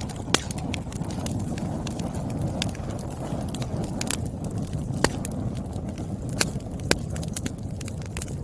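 Wood fire burning: a steady low rumble of flames with irregular sharp crackles and pops from the burning logs, a few louder snaps standing out.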